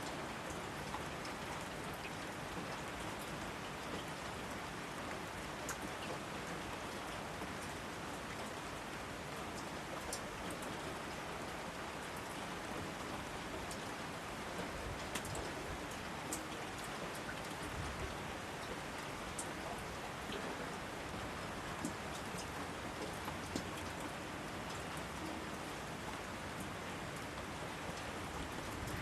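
Steady rain falling through a forest, with scattered distinct drops ticking on near surfaces. The level holds even.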